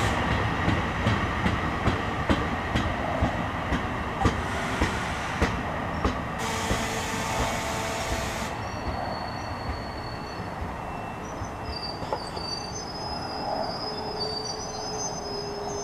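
NJ Transit bi-level commuter train rolling slowly past on steel rails, its wheels clicking over rail joints at a rhythm that slows and thins out. About six seconds in there is a burst of hiss. In the second half the wheels or brakes squeal in thin high tones as the train draws to a stop.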